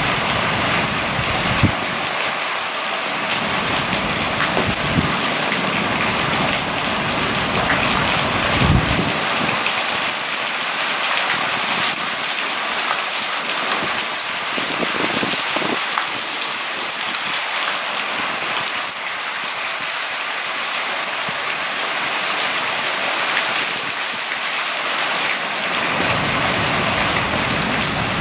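Rain falling steadily in a thunderstorm, a dense even hiss, with a few short low thuds scattered through it.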